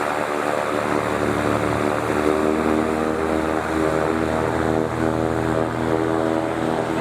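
Propeller aircraft engine running steadily at an even speed.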